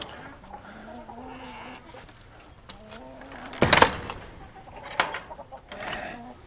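Hens clucking and murmuring in a chicken coop, with a sudden loud noise about three and a half seconds in and a sharp click shortly after.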